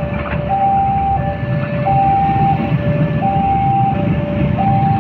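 Railway level-crossing warning alarm sounding: an electronic two-note signal, high then low, repeating about every one and a half seconds, warning road traffic that a train is coming. Road vehicles and motorbikes run underneath.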